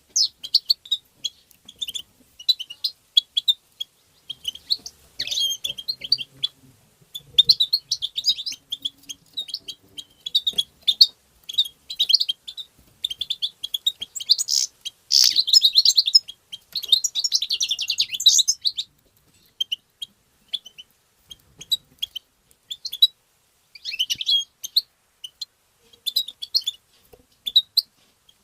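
European goldfinch twittering and singing: rapid, high chirps and trills in bursts of a few seconds, with short pauses between them.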